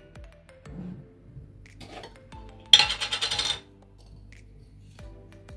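Brief clatter of metal kitchen utensils and a cooking pot clinking rapidly for under a second, about three seconds in, with faint scattered clinks around it.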